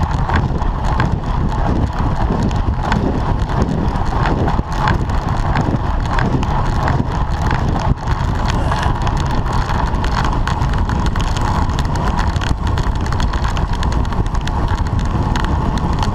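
Wind rushing over a camera on a road bicycle at racing speed, with steady road and tyre noise and many small clicks and knocks.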